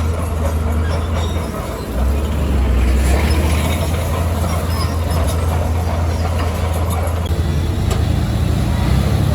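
Small crawler bulldozer's diesel engine running under load, with scattered metallic clanks from the tracks; the engine dips briefly a couple of seconds in, then picks up again.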